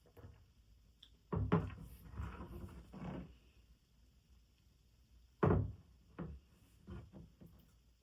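Household handling sounds: a run of soft thumps and knocks as objects are picked up and set down, with a single sharper knock about halfway through and a few lighter ones after it.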